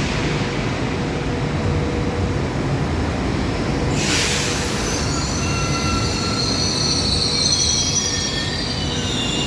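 ETR 600 Frecciarossa high-speed train moving slowly through the station with a steady low rumble. A short burst of hiss comes about four seconds in, then high-pitched wheel squeal in several tones follows to the end.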